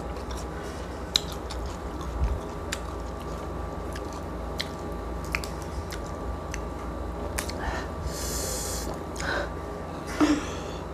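Chewing and crunching of crispy roast pork skin from a lechon pig's head, picked up close on a lapel microphone: scattered sharp crackles and clicks, with a longer crackling, tearing patch about eight seconds in as the crisp skin is pulled apart by hand.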